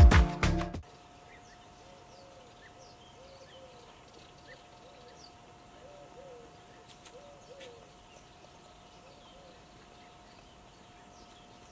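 Music cuts off under a second in, leaving faint outdoor ambience. A bird gives a series of short low calls that rise and fall in pitch, spaced irregularly about a second apart, over faint high chirps of small birds and a faint steady hum.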